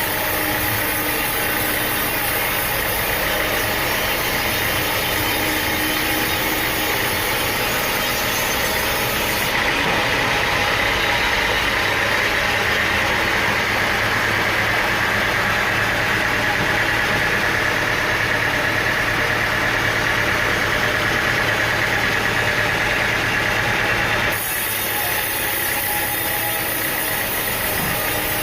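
Sawmill machinery with its engine running steadily, a continuous mechanical drone. The sound shifts abruptly about ten seconds in, becoming a little louder and brighter, and shifts back near the end.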